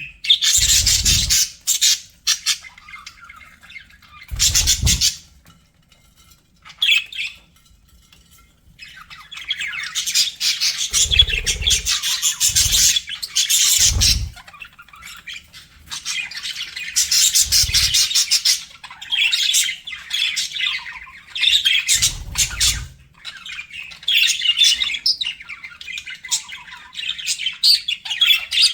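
Budgerigars chattering and squawking in a fast, busy warble with short pauses, joined by a few low thumps.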